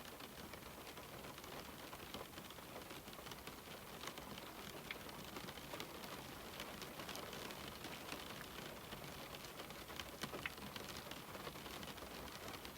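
Steady rain falling on a window pane, an even hiss with many small drops ticking against the glass.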